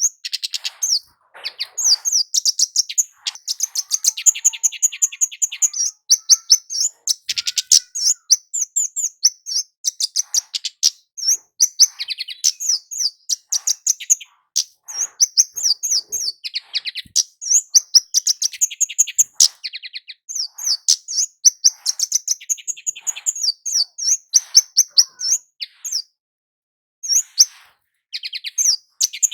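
Kemade jawa, a small flowerpecker, calling almost without pause: rapid runs of sharp, high 'cit' chirps, several a second, with a brief break near the end.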